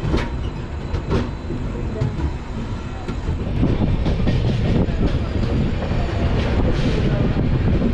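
Express train running, heard from an open coach door: a steady rumble and rush of moving air with wheels clacking over rail joints. There are sharp clacks near the start and around a second in, and the noise grows louder about three and a half seconds in.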